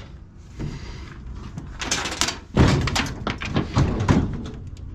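Loose coins rattling and clinking inside a washer-dryer combo as the machine is shifted, mixed with heavy sheet-metal thunks. The loudest knock comes about two and a half seconds in.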